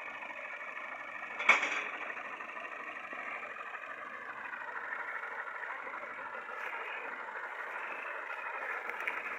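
Fiat tractor engine running steadily, with a single sharp bang about a second and a half in.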